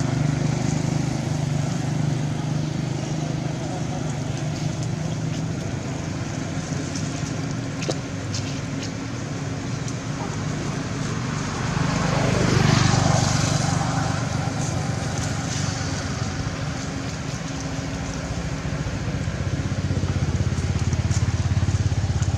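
A motor vehicle engine running steadily, with a vehicle passing close by about halfway through, getting louder and then fading.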